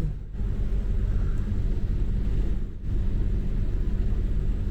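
A motor cruiser's engine running steadily under way, a low, even hum that dips briefly twice.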